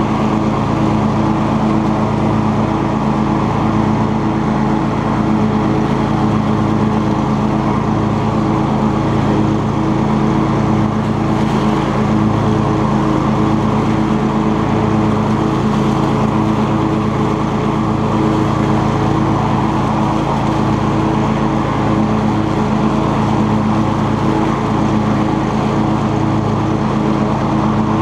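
Cub Cadet XT2 lawn tractor's engine running at a steady speed while mowing, with its 42-inch deck.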